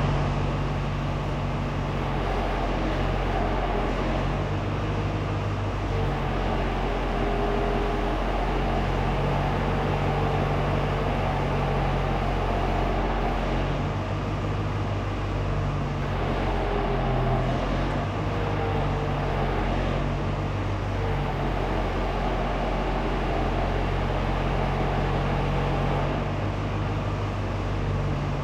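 Truck engine running steadily, its pitch shifting slightly up and down now and then.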